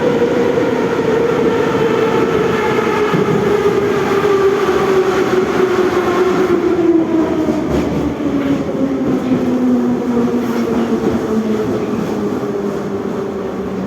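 81-717/714 metro train running, with its motor and gear whine falling steadily in pitch over the rail rumble as the train slows.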